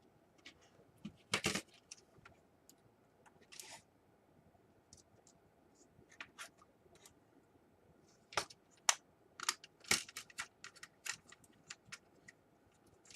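Scattered clicks and light taps of small plastic laptop parts being handled and fitted, sparse at first and more frequent in the second half.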